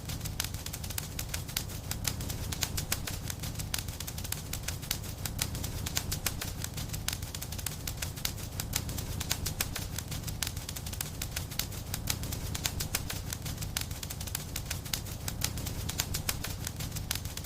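Fireplace wood fire crackling: dense, irregular sharp pops and snaps over a steady low rumble of the flames.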